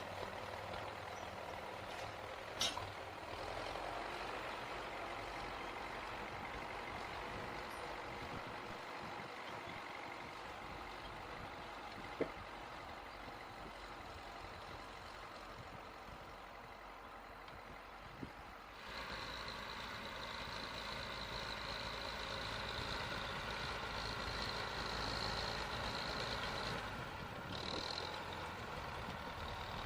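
T-74 crawler tractor's diesel engine running steadily under plowing load, with a few short clicks. About two-thirds of the way through, the sound grows louder and a high steady whine joins it.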